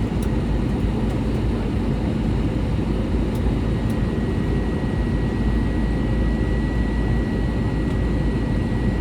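Steady cabin rumble of an Airbus A321 with CFM56 engines, heard from inside the cabin, with a faint steady whine joining about two seconds in.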